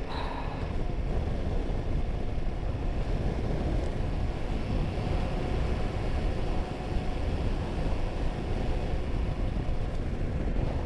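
Royal Enfield Himalayan 450's single-cylinder engine running steadily while riding, mixed with a heavy low rush of wind noise.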